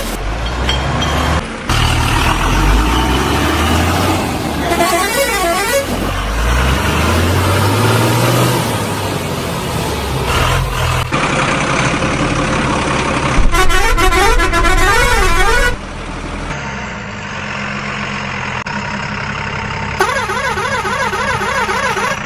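Truck sound effects: heavy engines running, one revving up in pitch about a third of the way in, with horn honks and a quickly warbling siren-like tone three times.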